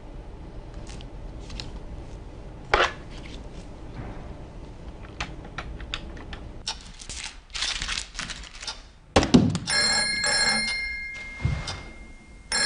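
Desk telephone ringing in the last few seconds, a steady electronic ring of several high tones, just after a heavy thunk. Before that, scattered light clicks and knocks.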